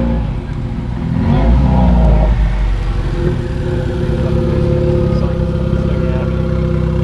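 A car engine revs briefly about a second in, then settles and runs steadily.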